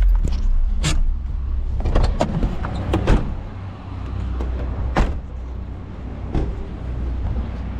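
Car running, with a steady low rumble and about half a dozen sharp knocks and clicks, the loudest about three and five seconds in.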